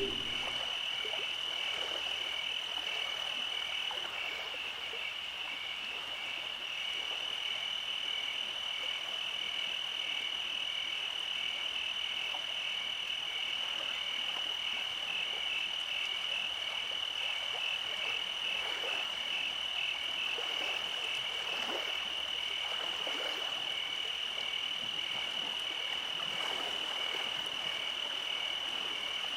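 Night chorus of calling animals: a steady high-pitched trill with a second trill just below it that pulses about twice a second, keeping on evenly throughout.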